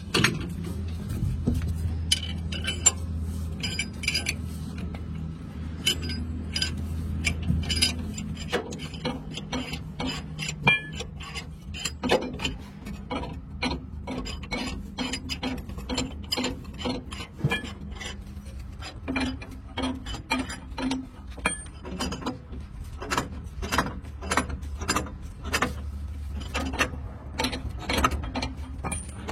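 Metal tool clicks from work on a truck's leaf spring, a long regular run of about two sharp clicks a second, over a low steady hum.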